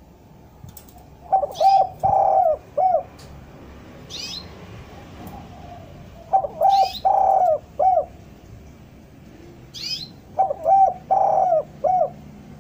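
Spotted dove cooing: three phrases, each a few short low coos around one longer held note, evenly spaced several seconds apart. Brief high chirps from a smaller bird come in between.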